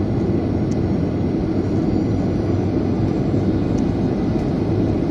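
Steady airliner cabin noise in flight: engines and airflow making an even, deep hum that doesn't change.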